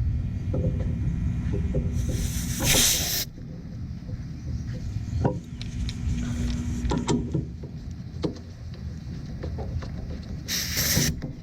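Refrigerant hoses being coupled onto an air conditioner's service ports: two short hisses of refrigerant escaping as the couplers seat on the valves, the first about two seconds in, the second shorter near the end, with light clicks of metal fittings being handled between them.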